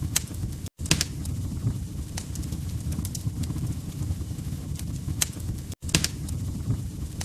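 Log fire crackling: a steady low rumble with irregular sharp pops and snaps. The sound cuts out for an instant twice, about a second in and near six seconds.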